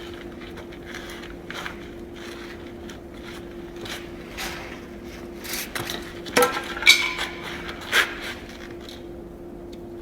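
Light scraping and a few sharp knocks of tools and timber being handled, the loudest about six and a half to eight seconds in, over a steady low hum.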